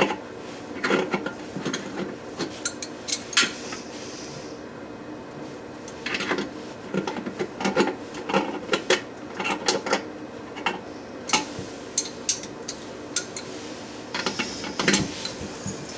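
Irregular metal clicks, taps and scraping from a wrench working the nuts on a toilet's closet bolts, in clusters with short pauses between.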